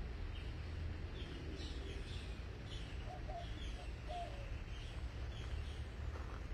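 Small bird chirping in a steady series of short, falling chirps, about two a second, with a few lower notes about halfway through, over a steady low rumble.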